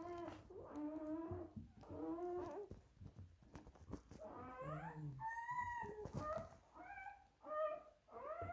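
Akita Inu whimpering and crying while whelping: a series of about eight short high-pitched cries, some rising and falling in pitch.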